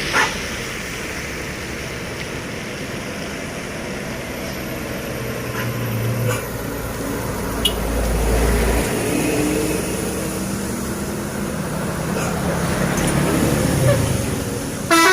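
Heavy trucks passing on a highway climb: engines running and tyres on the road, with a deep rumble swelling midway as a truck goes by and the engine pitch rising and falling. A vehicle horn starts right at the end.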